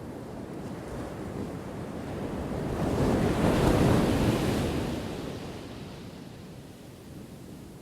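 Ocean waves breaking on the shore: one wave swells to a loud crash about halfway through, then washes out and fades.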